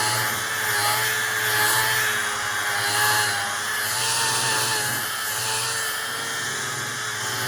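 Electric power tool working wood: a steady motor whine whose pitch sags and recovers slightly as it takes load.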